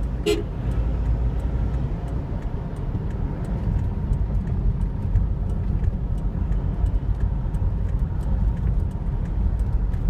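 Road traffic: a steady low rumble of vehicles driving, with one short horn toot just after the start.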